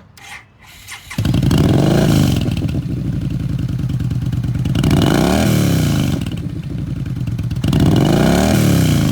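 A Yamaha V-Star 950's 950cc V-twin engine starts about a second in and is revved three times, the pitch rising and falling with each blip, idling between the revs.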